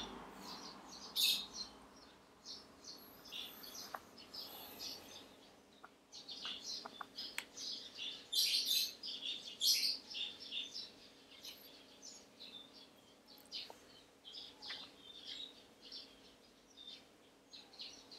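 Birds chirping in irregular runs of short, high calls, thickest about a second in and again around eight to ten seconds in, over a faint steady hum.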